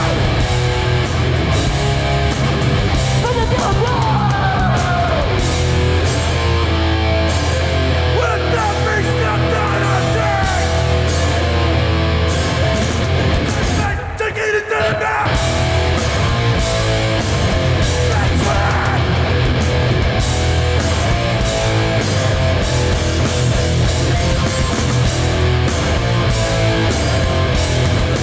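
Hardcore punk band playing live at full volume: distorted electric guitars, bass and drums. The band drops out briefly about halfway through, then comes straight back in.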